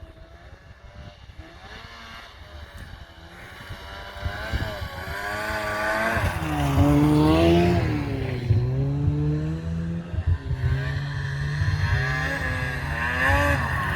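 A vehicle engine running, its pitch rising and falling as it revs, getting louder about halfway through.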